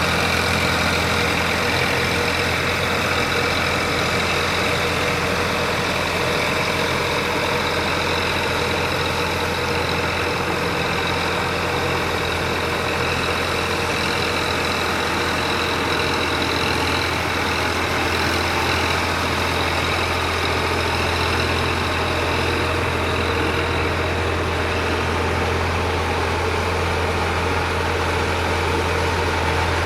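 Sonalika DI 47 RX tractor's diesel engine running at a steady speed, with an even low hum and no revving.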